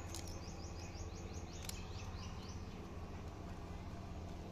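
A bird chirping a quick run of about ten short, high, falling notes over the first two and a half seconds, with a couple of sharp clicks, over a steady low hum.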